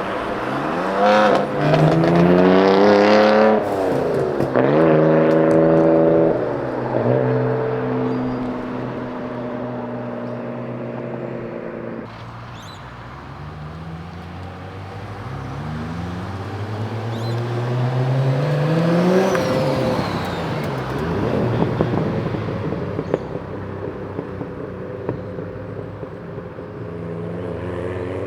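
Modified Japanese performance cars accelerating hard away one after another. One car revs up and shifts through the gears, loudest in the first few seconds. Another pulls away and passes about two-thirds of the way through, and a third begins revving near the end.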